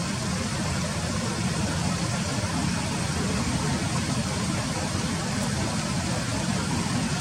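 Steady low rumble with an even hiss over it, unchanging throughout, with no distinct calls or knocks.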